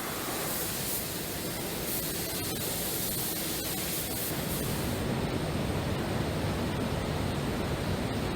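Steady rushing roar of an aircraft in flight, airflow and engine noise blended together. About five seconds in, the high hiss dulls and the low rumble grows slightly.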